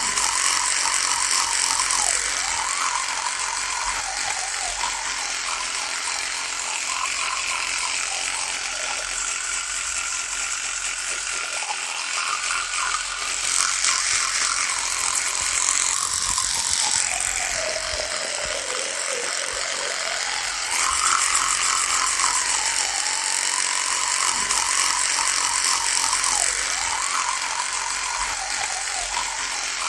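Electric toothbrush running with a continuous buzz whose pitch wavers; about halfway through, the pitch sinks for a few seconds, then comes back up.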